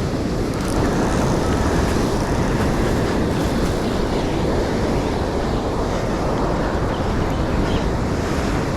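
Steady rush of surf along the shore, with wind buffeting the microphone.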